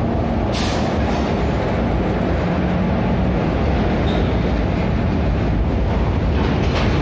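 An Indian Railways WAG-7 electric locomotive and its empty BOXN open freight wagons rolling past with a loud, steady rumble of wheels and wagons. A short hiss comes about half a second in.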